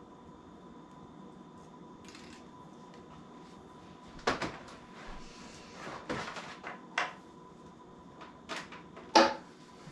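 Plastic knocks and clatters from handling the humidifier and its power cord: a run of short irregular thumps and rattles starting about four seconds in, the loudest near the end.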